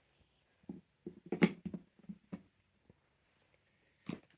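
Jigsaw puzzle pieces being handled and fitted together on a table: a cluster of light taps and knocks about a second in, then one more tap near the end.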